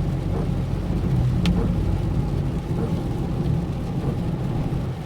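A vehicle driving on a rain-wet road: steady low engine and road rumble, with one short click about a second and a half in.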